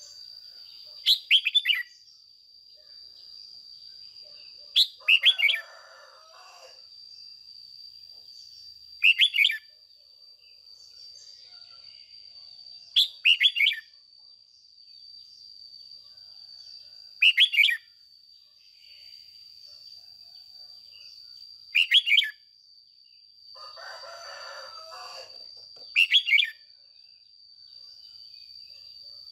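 Red-whiskered bulbul giving short, loud chirping song phrases, seven times at about four-second intervals, over a steady high-pitched whine.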